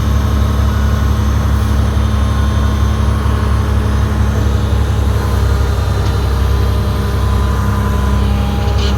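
Bulldozer diesel engine running steadily at a constant pitch.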